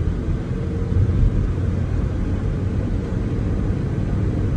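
Toyota Corolla's engine and road noise as the car drives under way, a steady low rumble while the automatic transmission works up from second gear toward third.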